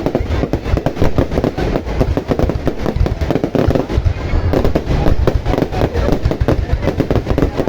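Fireworks going off in a rapid, continuous barrage: dense crackling bangs over deep booms, with no break.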